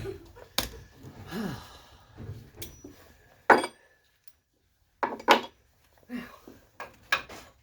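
Hand tools being handled: a handful of sharp metal clacks and knocks, like sockets and wrenches picked up and set down, with some rubbing between them.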